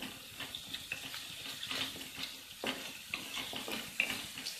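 Spice paste (masala) sizzling in oil in a steel kadhai, with a steady hiss and scattered scrapes and clicks as a spatula stirs it against the pan.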